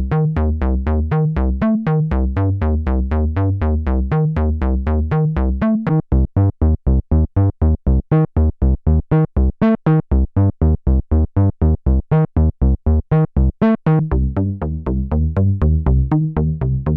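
Roland SE-02 analog monosynth playing a fast sequenced bass line in the low register, about six or seven notes a second. About six seconds in the notes turn short and clipped with gaps between them. Near the end they become fuller and connected again as the patch sound changes.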